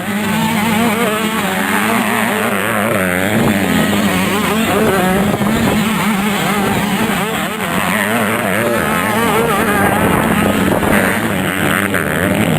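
Several 85cc two-stroke motocross bikes racing, their engines revving up and down over and across one another.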